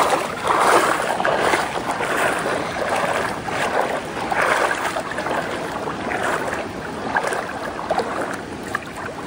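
Creek water splashing and rushing, an uneven noisy wash that swells and fades irregularly.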